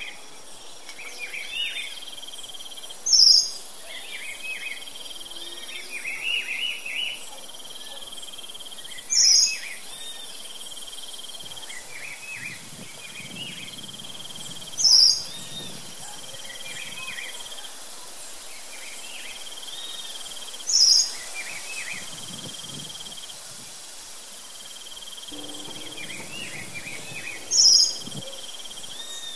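Birds chirping over a steady insect trill: a loud, sharp, high chirp comes about every six seconds, five times, with softer chirps in between.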